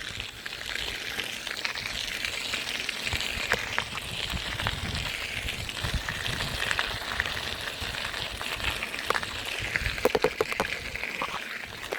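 Bicycle tyres rolling with a steady hiss, wind rumbling on the microphone, and scattered clicks and ticks, most of them about ten seconds in.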